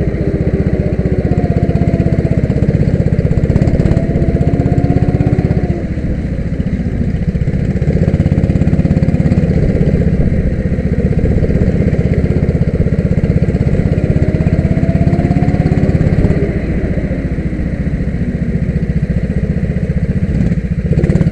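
Kart engine running hard on a circuit, its pitch climbing and falling several times as it accelerates and lifts off through the corners.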